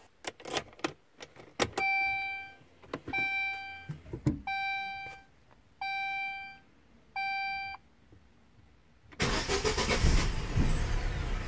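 A few clicks, then five evenly spaced electronic beeps. About nine seconds in, a car engine suddenly starts and runs on the methane left in the lines after the gas cylinder's valve has been shut, so that it will soon stall.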